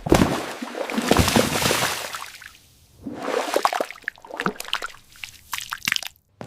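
AI-generated food ASMR sound: a wet, sloshing wash of liquid noise, then a run of small crackles and clicks that stops abruptly near the end.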